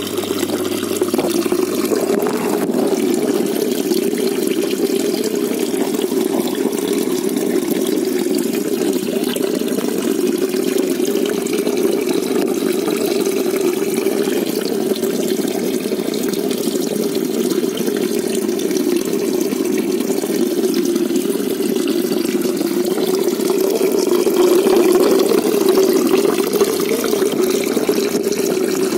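Steady, muffled rush of running water in a koi pond.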